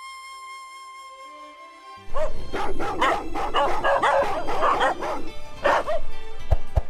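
Soft flute music, then about two seconds in, loud dog barking and yipping breaks in and runs on with rapid, overlapping barks.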